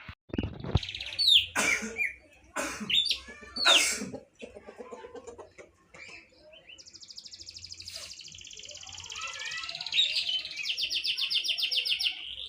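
Songbirds calling: loud, sharp calls with quick downward sweeps in the first few seconds, then a long, rapid, buzzing trill that builds in loudness from about seven seconds in.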